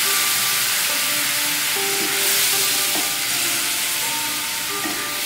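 Elephant foot yam pieces sizzling steadily in hot mustard oil in a kadai, with a metal spatula stirring and scraping through them and the poppy-seed paste.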